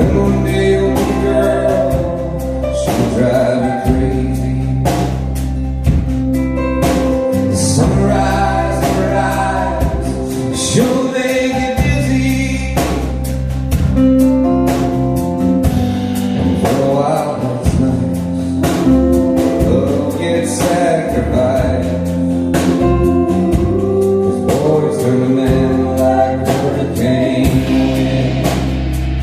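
Live band music with singing over a steady beat of drums and cymbals.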